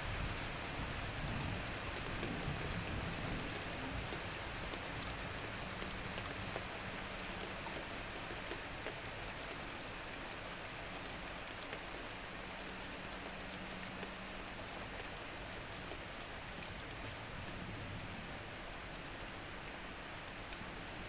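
Steady heavy rain, a continuous hiss with many individual drops ticking sharply on a hard surface.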